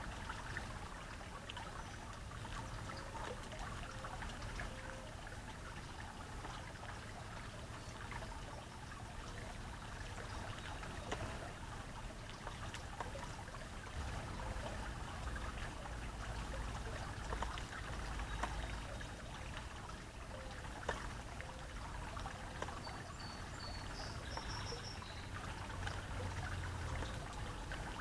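Steady trickle of running water. A few short, high chirps come near the end.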